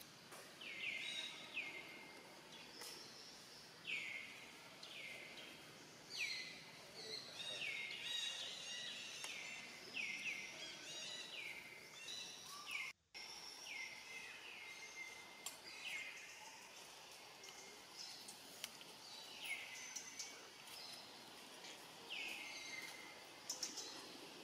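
A bird calling over and over: short, high notes that each sweep downward, often two in quick succession. The calls break off for a moment about halfway through.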